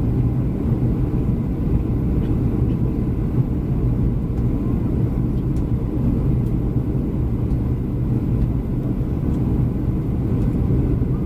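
Cabin noise inside a Boeing 737-300 airliner: a steady low rumble of engine and air noise with a constant low hum, unchanging throughout.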